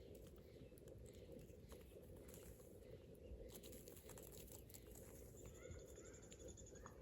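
Faint bird calls over quiet outdoor background noise: a rapid high trill about five seconds in, lasting about a second and a half, with a few short chirps that rise and fall near the end. Light scattered clicks come before it.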